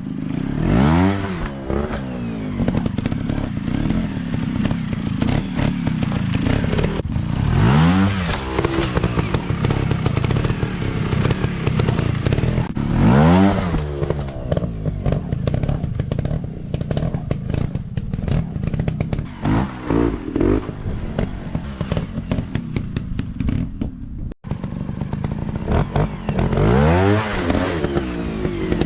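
150 cc dirt bike engines revving hard over and over, the pitch climbing and dropping every few seconds, with clattering and knocks mixed in. The sound drops out for an instant about three-quarters of the way through.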